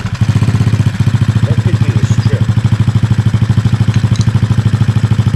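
Kayo pit bike's small single-cylinder four-stroke engine idling steadily with an even, fast pulse, running on its freshly overhauled and adjusted carburettor.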